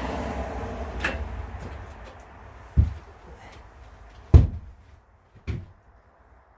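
A rumbling shuffle, then three dull low thumps about a second apart, the middle one loudest.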